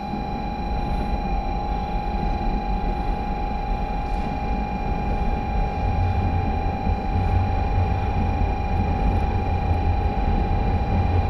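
Sanyo Shinkansen train noise at a station platform: a steady high tone over a low rumble that grows louder about halfway through.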